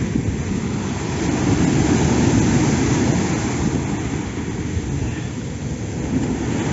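Heavy low rush of wind buffeting the microphone over storm waves surging against a rocky shore. It swells about a second and a half in, then eases.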